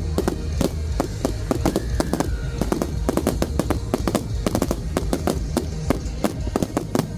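Aerial fireworks bursting overhead in quick succession: many sharp bangs and crackles several times a second over a continuous low rumble.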